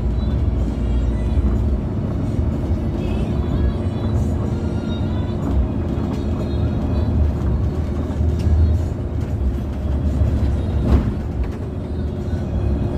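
Steady engine and road rumble of a moving bus heard from inside the cabin, with music playing over it.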